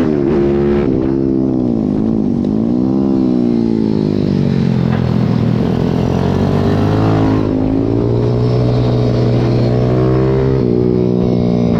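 Pit bike engine heard from onboard while racing. The revs fall and climb again twice in quick succession a couple of seconds in, then run high and fairly steady, and drop once more near the end before picking up.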